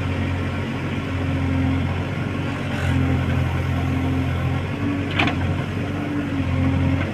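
Heavy diesel engine running steadily under varying load, its note stepping slightly up and down. A single sharp metallic clank about five seconds in.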